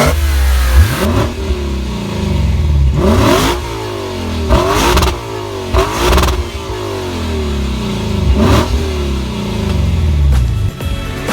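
Lexus RC F's 5.0-litre V8 and quad-tailpipe exhaust revved in about five quick throttle blips. Each rev climbs sharply with a bark from the exhaust, then the revs fall away slowly.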